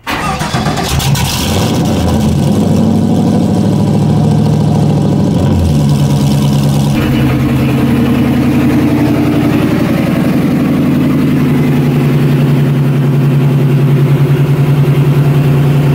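GM LS1 V8 swapped into a Mazda RX-7 cold-starting through a half-built custom exhaust. It catches right at the start with a brief flare, then settles into a steady, loud idle whose note shifts slightly about seven seconds in.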